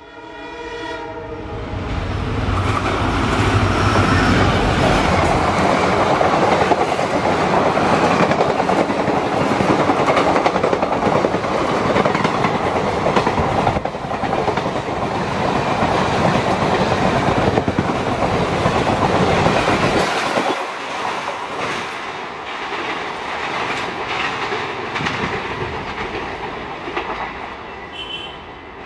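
WDG-4 (EMD GT46MAC) diesel locomotive, with its 16-cylinder EMD 710 two-stroke engine, hauling an express train past. A horn blast sounds right at the start, then comes the loud rush and clatter of the locomotive and coaches going by. The deep engine sound drops away after about twenty seconds and the clatter eases toward the end.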